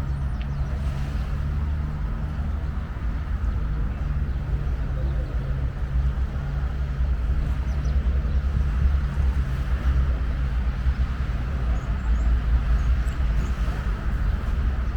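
Steady low rumble of road traffic, with the hum of a vehicle engine running close by.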